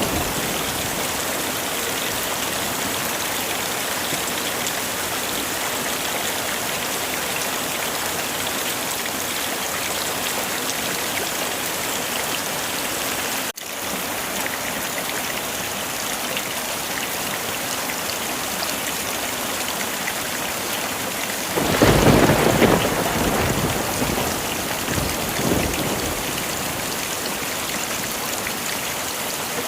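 Heavy rain falling steadily, with a low rumble of thunder about two-thirds of the way through that swells for a couple of seconds and dies away in smaller rolls. The rain cuts out for an instant about halfway through.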